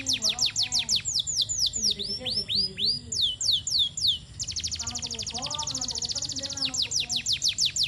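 Domestic canary singing: long runs of quick, high down-sweeping notes, broken in the middle by a very fast, rattling trill, then sweeping notes again.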